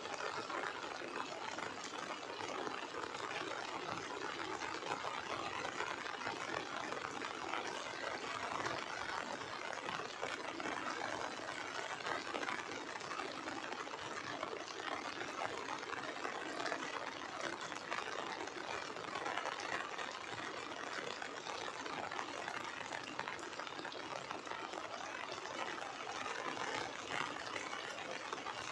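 Heavy rain falling, a steady even hiss of drops that does not let up.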